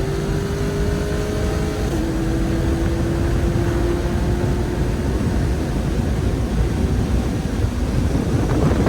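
Car being driven at a steady pace: a steady engine drone over road rumble, its pitch sagging slowly and stepping down about two seconds in. Near the end the rumble grows rougher and louder.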